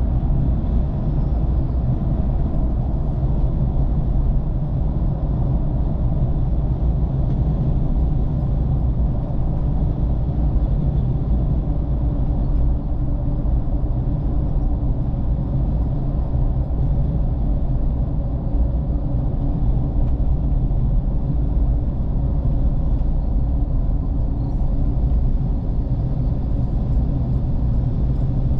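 Steady low rumble of a moving road vehicle: engine and road noise while driving.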